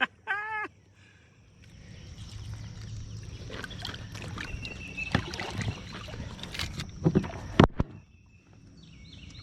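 Water splashing and sloshing against a kayak, with a few sharp knocks on the hull. A short voiced sound comes near the start.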